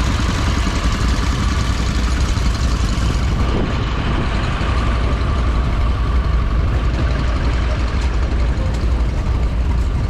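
Stationary engine running steadily at a fast, even beat. A faint high whine in the first half fades away.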